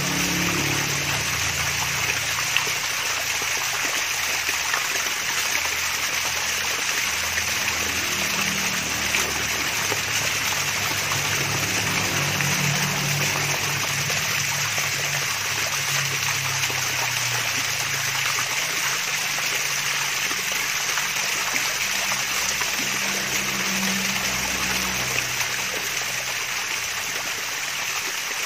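Water splashing and trickling steadily over a small waterfall, with a soft low gurgle shifting underneath.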